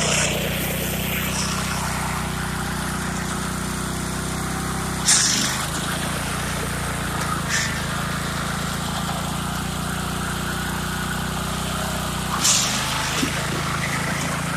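Riding lawn tractor's small engine running steadily, with sharp knocks about five seconds in and again near the end, where the engine note shifts.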